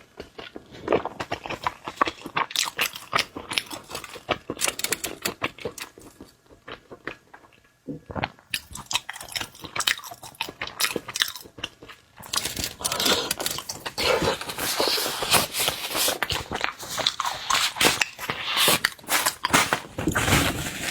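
Close-miked chewing and biting of seafood: irregular crunchy, wet clicks from the mouth, sparser for a moment in the middle and busier in the second half.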